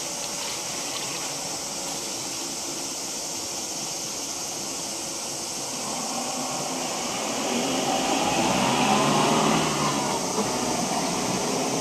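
Steady outdoor background noise with a vehicle passing, growing louder from about six seconds in and loudest around eight to ten seconds, then fading.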